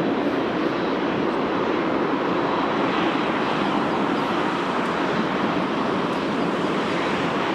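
Jet airliner engines making a steady, loud rushing noise.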